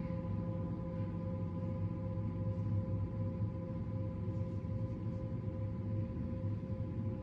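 Several steady bell-like tones held on together, ringing out evenly over a low, dense hum.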